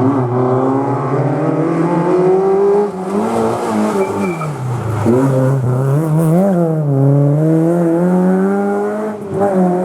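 Historic rally car's engine revving hard under load, its pitch climbing, falling away about three seconds in, then climbing again through the gears.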